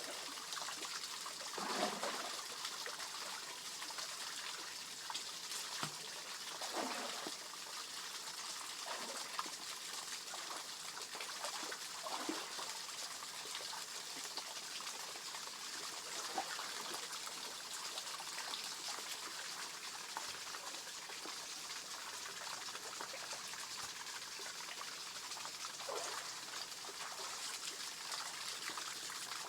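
Small waterfall in a rice-field stream trickling steadily, with a few brief louder noises now and then.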